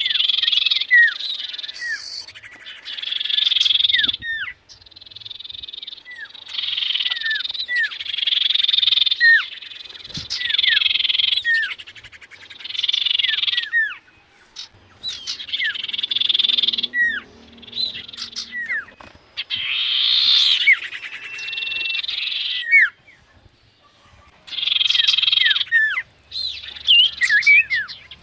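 Sirtu, or common iora (cipoh), singing: repeated phrases of rapid buzzy trills, each a second or two long, mixed with short falling whistled notes, with brief pauses between phrases.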